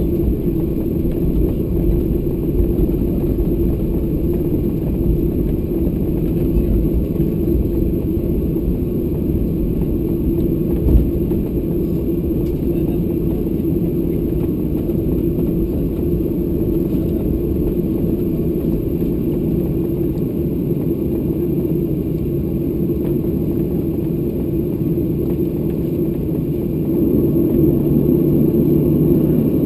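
The CFM56-7B jet engines of a Ryanair Boeing 737-800 running steadily, a low rumble with a hum in it. The sound grows louder about 27 seconds in.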